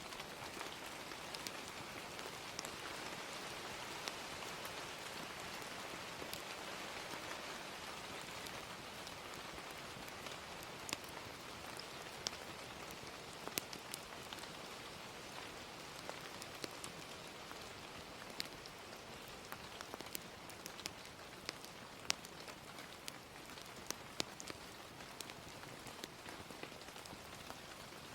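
Steady gentle rain, with scattered sharp pops and crackles of a wood fire that come more often in the second half.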